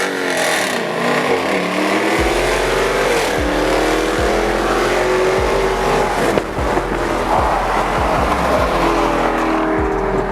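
Muscle car V8 engines under hard acceleration in a street race, the pitch climbing and then dropping at each gear change, with a steady low rumble underneath.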